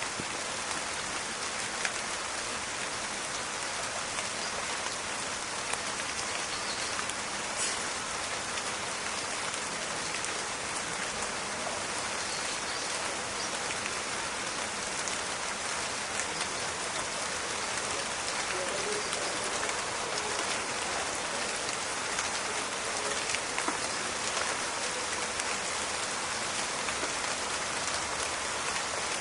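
Steady rain falling in a forest, a dense even patter with scattered individual drop ticks.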